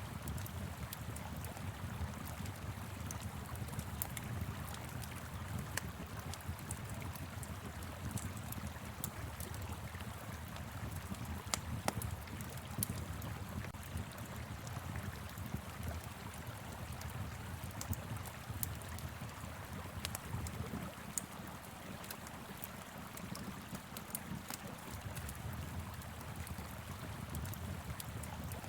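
Wood fire crackling with scattered sharp pops over the steady rush of a flowing river, with a low wind rumble underneath.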